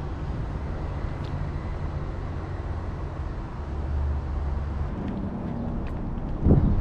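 A motor vehicle's engine running with a steady low rumble. Near the end, a gust of wind buffets the microphone.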